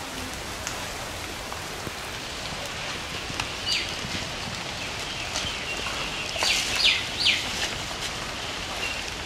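Steady rain falling and pattering on the ground, with scattered drips. Cutting through it are four short, falling chirps: one about a third of the way in and three in quick succession past the middle.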